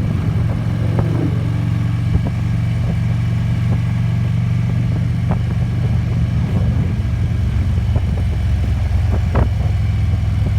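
Harley-Davidson Electra Glide's V-twin engine running steadily while cruising at about 40 mph, with a few light clicks scattered through.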